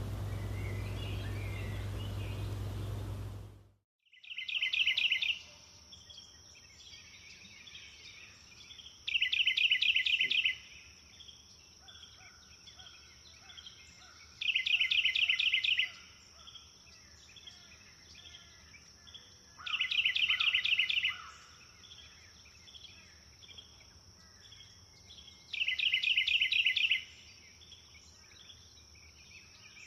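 A songbird repeating a short phrase of rapid notes five times, about every five seconds, over a steady high-pitched insect drone. Before it, a rushing noise with a low hum cuts off suddenly about four seconds in.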